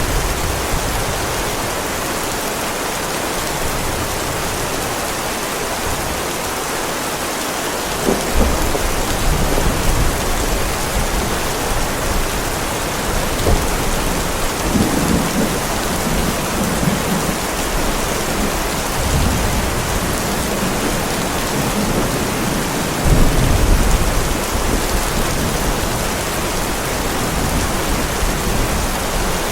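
Heavy rain falling steadily on a driveway, a constant hiss. Low rolling thunder starts about a quarter of the way in and swells twice, loudest a little past the middle.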